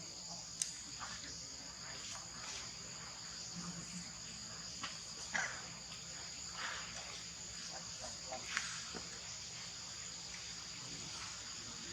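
Steady high-pitched drone of crickets or similar insects, holding two pitches, with a few short sharp chirps or squeaks standing out above it.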